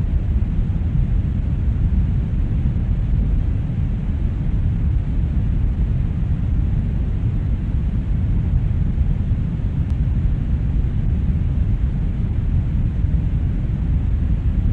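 Brown noise: a steady, unchanging hiss weighted heavily toward the deep end, with little treble.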